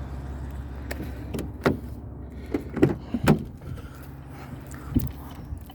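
A low, steady mechanical hum, with a handful of sharp knocks and clicks about a second and a half in, a cluster around three seconds in, and one more near the end.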